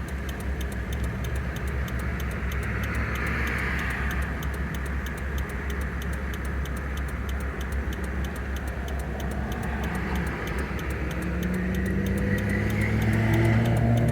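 Mercedes turbo diesel engine in a 1994 Toyota 4Runner running, heard from inside the cab, with a steady regular ticking over it. Its note rises and grows louder near the end.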